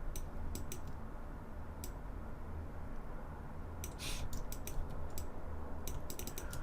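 Computer keyboard keys and mouse buttons clicking: scattered single clicks, with a quick run of several about four seconds in and again near the end, over a low steady hum.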